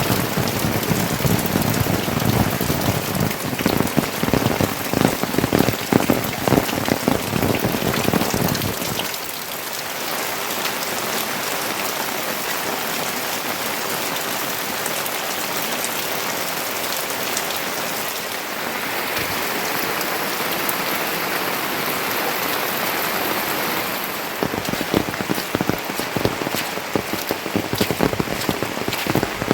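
Rain falling steadily, with heavier, close pattering drops for roughly the first nine seconds and again near the end.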